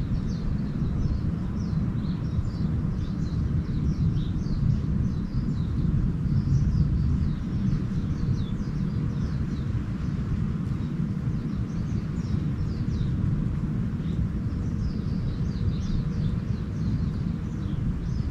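Small birds twittering in short, quick high chirps that come in clusters every few seconds, over a steady low rumble that is the loudest sound throughout.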